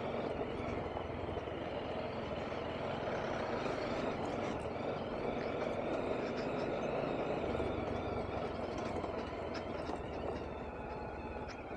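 BMW G310RR motorcycle's single-cylinder engine running at low speed over a rough, broken road, with steady road noise and scattered small ticks and rattles; it eases slightly near the end.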